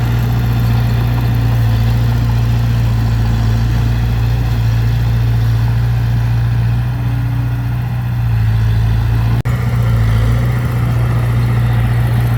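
Diesel engine of heavy earthmoving equipment running steadily with a strong low drone, broken by a momentary dropout about nine and a half seconds in.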